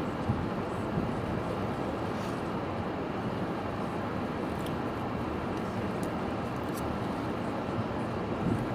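Strong storm wind on the microphone mixed with the rush of sea waves against a sea wall: a constant low rushing noise with no single loud splash.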